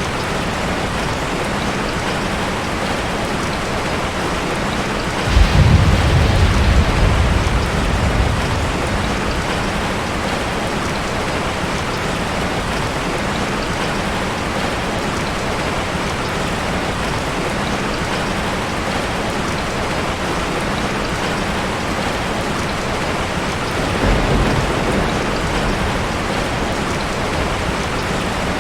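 Steady rain falling, with a roll of low thunder about five seconds in that lasts about three seconds, and a weaker rumble of thunder near the end.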